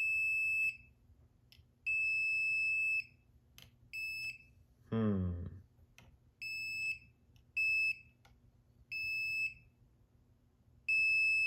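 Non-contact voltage tester beeping in steady high-pitched tones, about seven beeps of uneven length as it is moved along the wires. The tester is signalling that the conductors read as hot.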